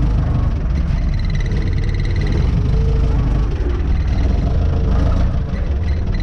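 Renault 651 tractor engine running steadily, heard from inside the cab while the tractor is manoeuvring, with a brief high-pitched pulsing whine about a second in.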